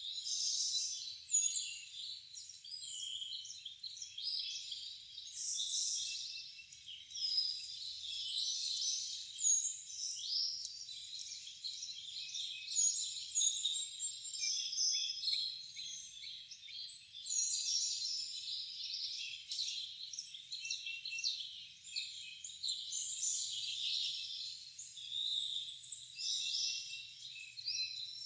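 A chorus of wild songbirds, many calls and songs overlapping in a continuous stream of short, high chirps and trills.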